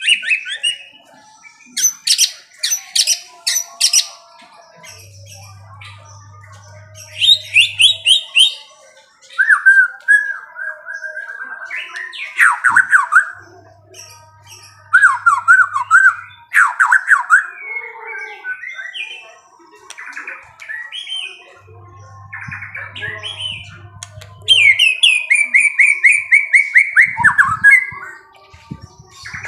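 Songbird singing in loud, varied bursts: quick repeated chirps, rapid trills and harsh squawky notes, with short pauses between phrases.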